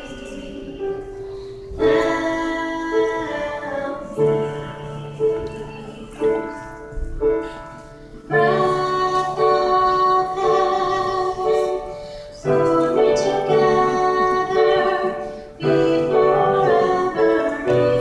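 A woman singing a melody in long, held phrases over piano accompaniment.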